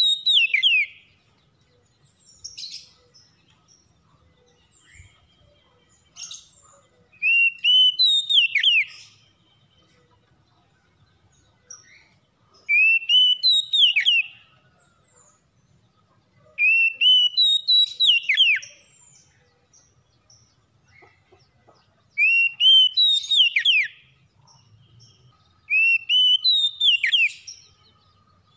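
Oriental magpie-robin (kacer) singing, repeating one short whistled phrase six times, about every four to five seconds: a few rising notes, then a quick sweep up and down. Softer calls come in the gaps.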